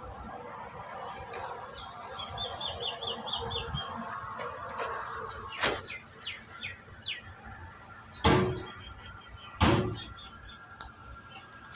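A small bird chirping in quick runs of high notes over a steady background hum, with three sharp knocks about a second or more apart in the second half, the last two the loudest.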